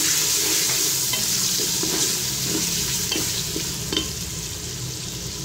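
Onion-and-spice masala sizzling in hot oil in a pressure cooker while a wooden spoon stirs it, with a few light knocks of the spoon against the pot. The sizzle eases a little toward the end.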